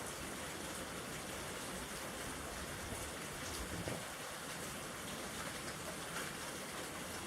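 Steady rain falling in a dense, even hiss, with one brief low thump a little under four seconds in.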